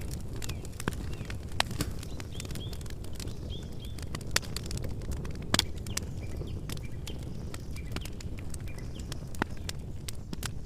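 Wood campfire burning with a steady low rush of flame and scattered sharp crackles and pops, a few standing out louder. Faint bird chirps a few seconds in.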